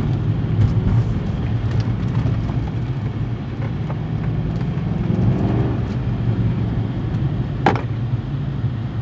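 Car engine running while the car is driven, rising in pitch for a moment near the middle as it speeds up, with a sharp click late on.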